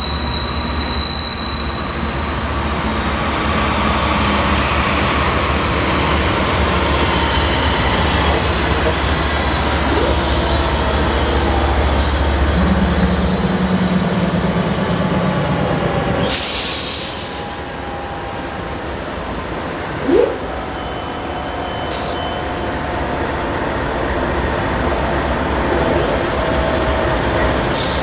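Slow-moving BNSF freight train rolling past, with a low diesel locomotive rumble through roughly the first half and faint thin wheel squeal from the cars. There is a short hissing sound about two-thirds of the way through and a single sharp clank a few seconds later.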